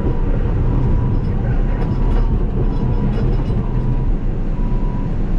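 Caterpillar D6K2 XL bulldozer working: the diesel engine running steadily under load with the steel tracks clattering, and a faint steady whine throughout.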